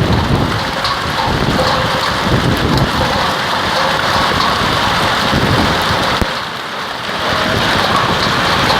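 Heavy hailstorm: hail and rain pelting down on surfaces in a dense, steady clatter, with a low rumble underneath. It eases briefly about six and a half seconds in, then picks up again.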